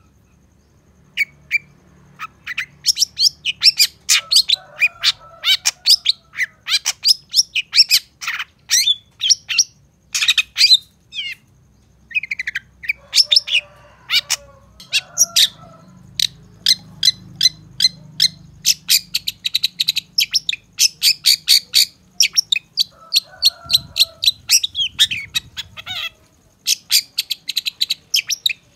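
Long-tailed shrike (cendet) singing: fast runs of sharp, high chirps, many a second, broken a few times by short harsh lower notes.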